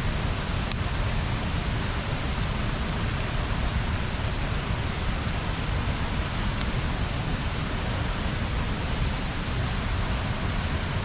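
Bonfire burning: a steady rushing noise with a few faint, sharp crackles scattered through it.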